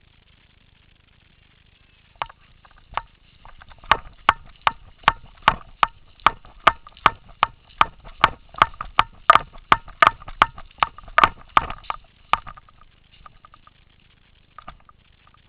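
Paintball marker firing a steady string of sharp shots, about two and a half a second, for about ten seconds, beginning about two seconds in. A few fainter shots follow near the end.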